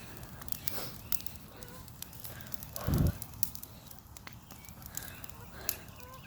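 Bonfire of dry tree branches crackling, with many sharp pops scattered throughout and a dull thump about three seconds in.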